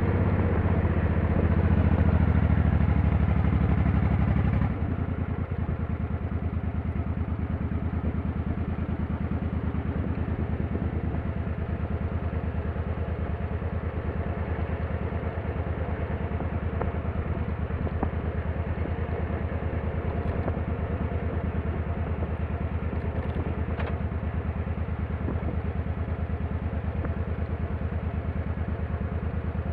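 Motorcycle engine running, louder for the first few seconds, then dropping suddenly to a steady, quieter running for the rest.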